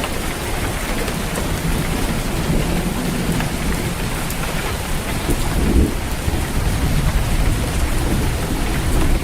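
Steady rain on a roof with low rolling thunder rumbling underneath, swelling a little about six seconds in.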